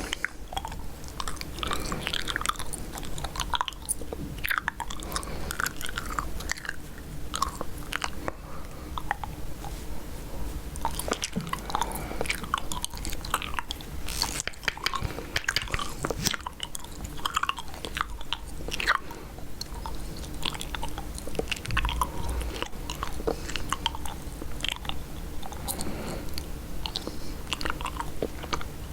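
Chewing gum close to the microphone, with frequent irregular wet smacks and clicks.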